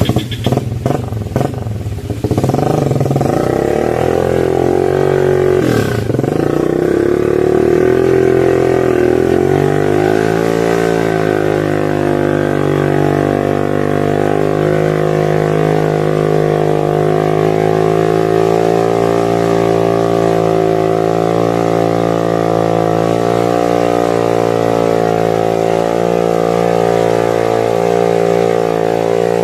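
Motorcycle engine on a palm-fruit hauling bike held at high revs under hard throttle, after a couple of seconds of uneven, choppy revving; the pitch dips briefly a few seconds in, climbs around ten seconds, then stays steady.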